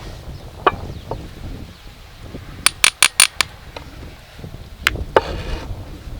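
Sharp clinks and taps of cooking utensils against cookware: a few scattered strikes, a quick run of five about two and a half seconds in, and a short rustling patch a little after five seconds.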